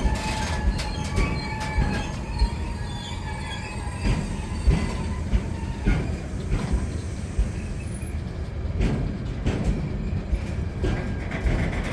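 Freight train rolling past with a steady low rumble and irregular knocks from the wheels and wagons, its wheels squealing in the first few seconds before the squeal fades out.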